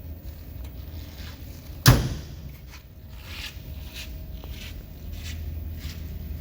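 A single loud slam about two seconds in, like a pickup truck door shutting, over a low steady rumble.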